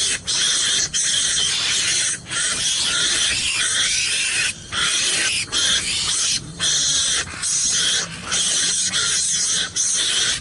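Harsh, hissing animal calls repeated over and over, each lasting about half a second to a second, with brief breaks between them.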